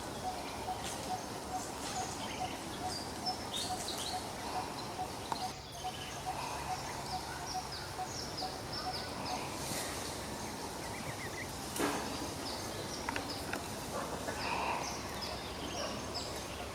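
Outdoor background noise with many short, high, falling chirps from animals, and scattered clicks; a faint, even pulsing runs through the first half.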